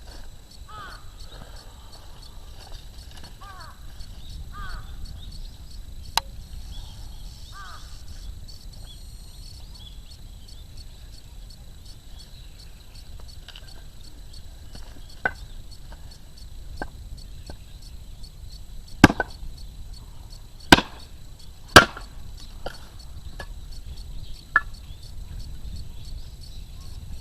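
A handful of sharp, separate knocks, irregularly spaced, with the loudest three coming close together a little past the middle.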